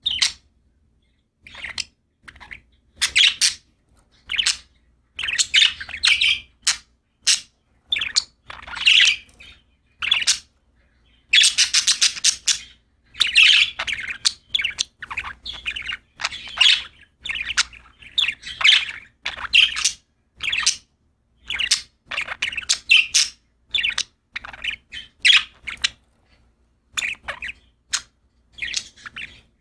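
Pet budgerigars chirping and warbling in quick bursts of short, high calls, with brief pauses between them.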